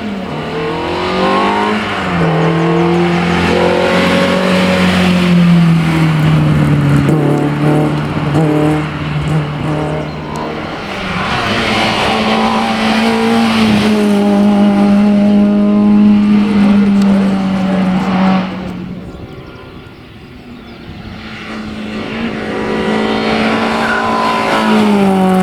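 Peugeot 205 rally car's engine running hard at high revs on a hillclimb, its pitch rising and falling as it accelerates and lifts. The sound fades away about twenty seconds in, then comes back loud near the end.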